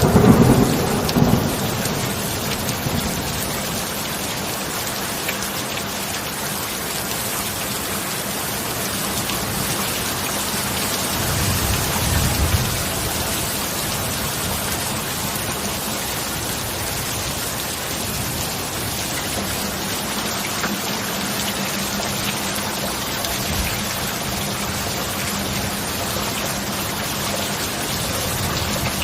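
Heavy steady rain with rolls of thunder: a loud rumble right at the start and another about twelve seconds in.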